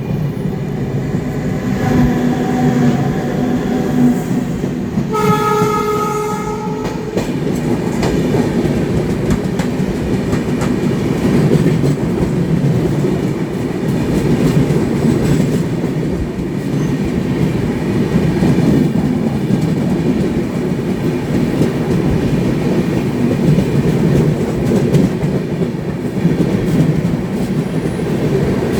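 Electric locomotive horn sounding twice: a fainter held note about two seconds in, then a louder short blast about five seconds in. This is over the steady rumble and wheel clatter of a WAG12-hauled freight train running on the track.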